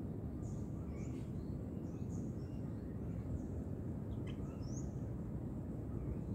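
Small birds chirping now and then in short, high calls, some rising, over a steady low rumble of background noise.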